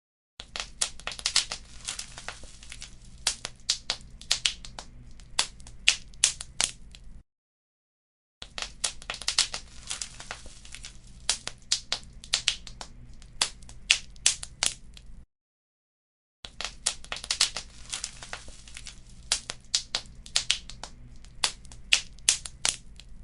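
Wood fire crackling, with frequent sharp pops and snaps over a low steady rumble. The sound cuts out to silence for about a second twice, as if the recording is looped.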